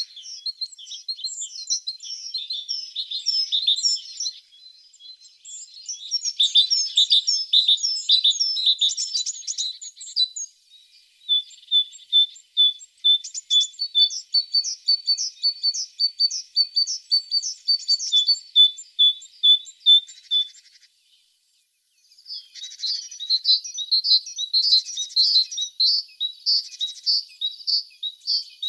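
Blue tits singing: quick, high chirps and trills, with runs of evenly repeated notes in the middle and a break of about a second near the end.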